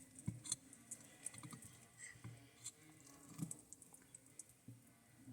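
Red-footed tortoise biting and chewing raw beef: faint, irregular clicks and small soft knocks from its beak working the meat.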